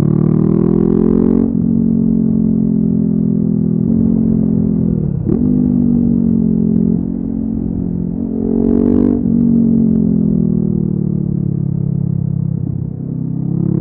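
Honda CB500F's 471 cc parallel-twin engine through a LeoVince aftermarket exhaust, riding on the road. Revs climb and drop at a gear change about a second and a half in, dip and recover briefly around five seconds, and climb again around eight to nine seconds. Revs then fall off slowly before rising once more near the end.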